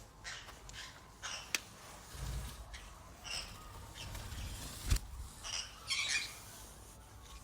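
Pet parrots giving short, scattered chirps and calls, with a couple of sharp clicks between them.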